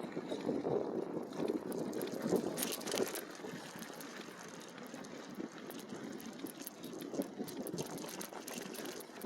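E-bike rolling along an unpaved trail: a steady crackle of tyres over the ground, with many small clicks and rattles, busier in the first few seconds.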